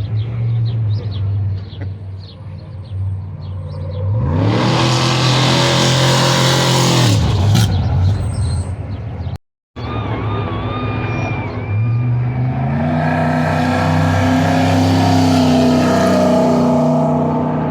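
Off-road race vehicle engines at full throttle: one passes by about four seconds in, its note rising and then dropping as it goes, and after a cut another comes up loud and keeps running hard to the end.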